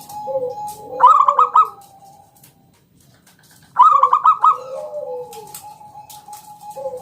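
Zebra dove (perkutut) singing: two song phrases about three seconds apart, each a quick run of staccato higher coos followed by lower, falling coos, with another low coo near the end.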